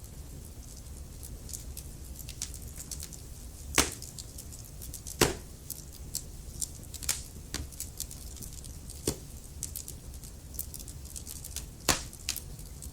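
Wood fire crackling: a steady scatter of small snaps over a low rumble of the flames, with three louder pops about four, five and twelve seconds in.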